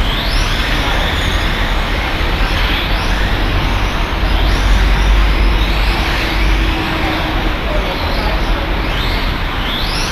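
RC cars running, their motors whining and rising in pitch as they accelerate, several times over, over a steady low rumble.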